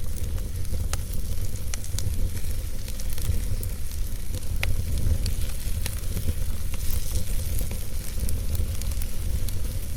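Wood fire burning in a fireplace, crackling with scattered sharp pops and snaps over a steady low rumble and hiss.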